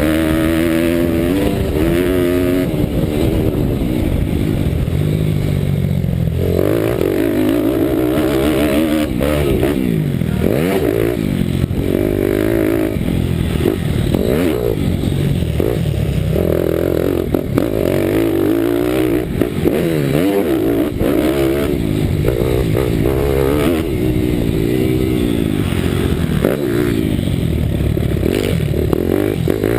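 Bucci Moto pitbike's 190 cc Daytona Anima single-cylinder four-stroke engine under hard riding, revving up and dropping back again and again through gear changes and corners, heard from the onboard camera.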